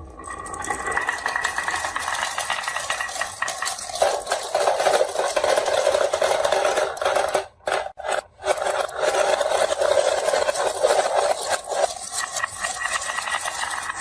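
Marbles rolling and clattering down a marble run track in a dense, continuous rattle of small clicks, growing louder about four seconds in and breaking off twice briefly around the middle.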